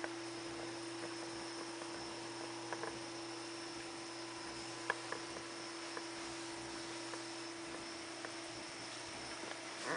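Steady electrical hum with background hiss, broken by a few faint, isolated clicks.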